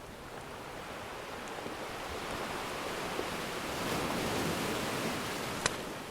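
Ocean surf: a wave builds to a peak about four seconds in and washes back. A single sharp pop from a crackling wood fire comes near the end.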